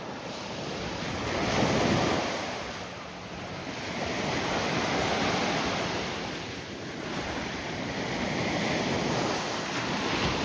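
Gulf of Mexico surf washing up on the beach, swelling and fading in several surges, the loudest about two seconds in, with wind buffeting the microphone.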